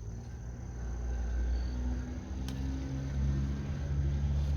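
A low, steady engine hum, such as a nearby vehicle, stepping up slightly in pitch about two seconds in.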